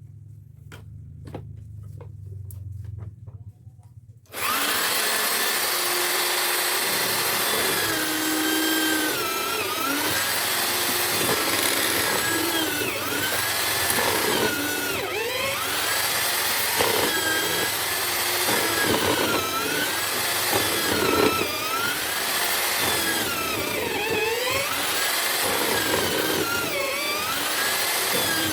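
Homemade drill-driven chisel mortiser cutting mortises in wood. After a few quiet seconds with light ticks, the motor starts suddenly about four seconds in and runs loudly, its pitch dipping and recovering every second or two as it labours under load with each plunge into the timber.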